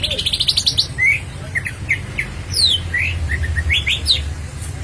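Cucak ijo (green leafbird) singing: a quick rolling run of rising notes at the start, then a string of separate whistled notes sweeping up and down.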